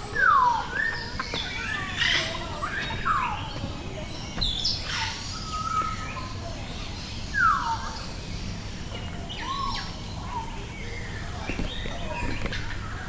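Several birds calling over one another: whistled calls that slide down in pitch, mixed with short chirps, over a steady low background hum.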